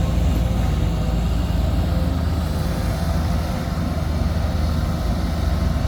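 Heavy diesel engine of earthmoving equipment running steadily, a low continuous engine sound without pauses.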